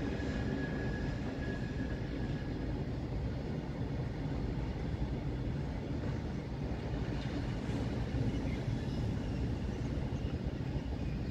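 Freight train of covered box wagons rolling past behind a WAG-12 electric locomotive, a steady rumble of wheels on rail. A thin high whine sounds over it for the first two or three seconds.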